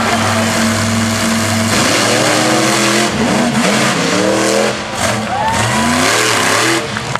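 Monster truck engine running loud at a steady pitch, then revved up and down several times from about two seconds in.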